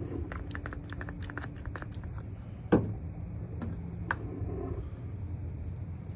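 Cleaning a truck's tailgate by hand with a rag and sanitizer: a quick run of light clicks and taps for about two seconds, then one sharp knock, then a few scattered clicks, over a low steady hum.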